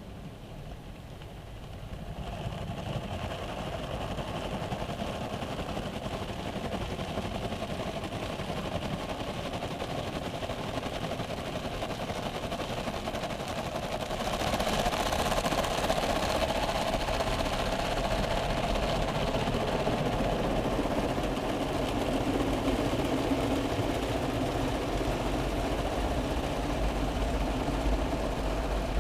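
YASUI Miracon Rush gantry car wash machine at work, a steady mechanical washing noise. It grows louder about two seconds in and again, brighter, about fourteen seconds in.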